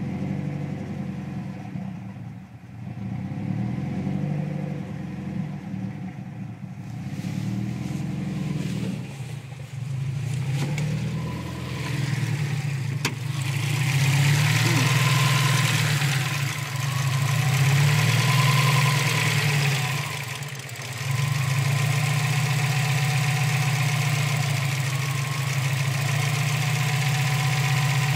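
Subaru WRX STI's turbocharged flat-four idling roughly, the revs hunting up and down instead of holding steady, in slow swells a few seconds apart. The owner cannot find the cause; the idle bounces between about 500 and 1500 rpm.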